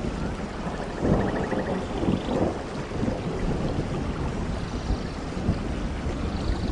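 Steady rainfall in a rainforest with a low rumble of thunder underneath, and a few faint high chirps near the end.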